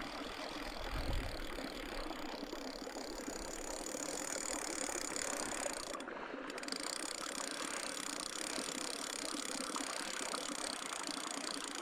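Fishing reel being cranked steadily, its gears whirring and clicking as the lure is retrieved, with a brief pause about six seconds in.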